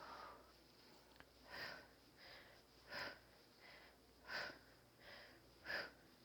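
Faint breathing of a person exercising, in a steady rhythm: a louder breath about every second and a half, with a softer one between each.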